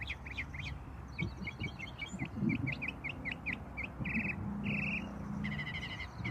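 Songbirds singing: a rapid run of short, downward-sweeping chirps with a couple of brief buzzy trills in the middle.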